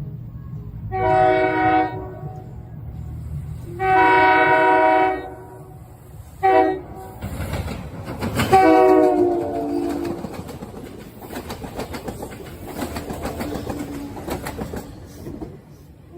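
SEPTA commuter train sounding its horn in the grade-crossing pattern, long, long, short, long; the last blast drops in pitch as the train passes. Then its wheels clack rapidly over the rail joints as the cars go by, over a low rumble.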